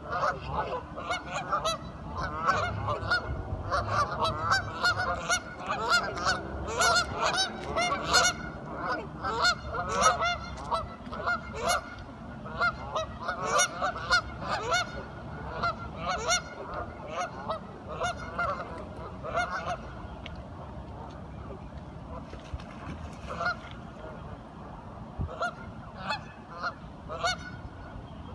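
A group of ducks quacking, many short calls overlapping in quick succession, thinning out to scattered calls after about twenty seconds.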